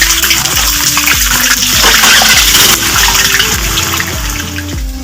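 Puris frying in hot oil: a loud, steady sizzle, with background music playing over it.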